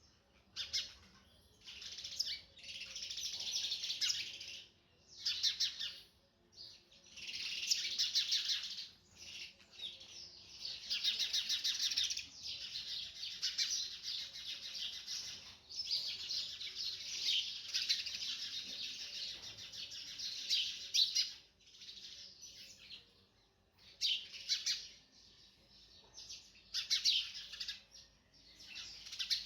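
Sunbird singing rapid, high twittering trills: short phrases with pauses, and a longer near-continuous run through the middle.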